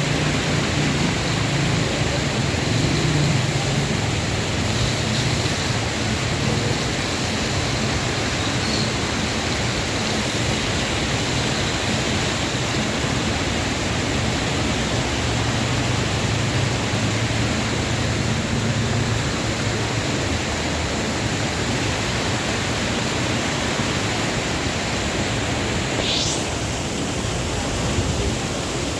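Waterfall rushing with a steady, even roar of falling water. A short rising whistle sounds once near the end.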